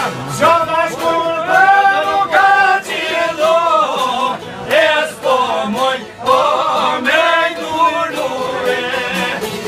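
Male voices singing an Albanian folk song in a drawn-out, ornamented melody, over a plucked string instrument.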